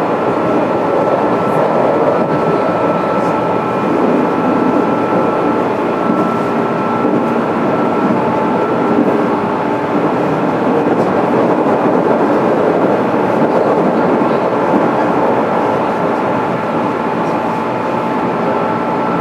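Steady hum and rush inside a JR 205-series electric multiple unit car, with a few constant tones over it and no rise or fall in pitch, as when the train stands at a station waiting to depart.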